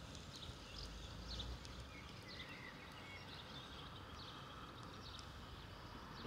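Birds chirping faintly in short scattered calls, over a low steady background rumble.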